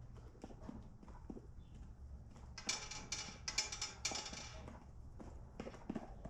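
Chickens pecking, making scattered light taps, with one loud, raspy hen call about two and a half seconds in that lasts about two seconds.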